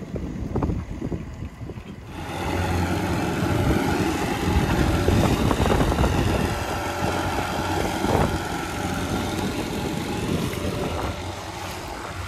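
Boat engine running steadily, growing clearly louder about two seconds in as it is throttled up.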